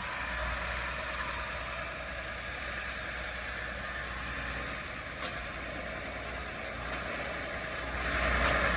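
Tractor and single-row maize chopper running steadily, a low engine hum under an even mechanical noise, with one sharp click about five seconds in.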